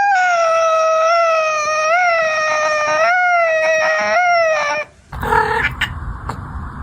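A cat's long drawn-out yowl, held at a steady pitch for almost five seconds with a few small upward lifts, then stopping. After it come a couple of short calls over a rumbling background.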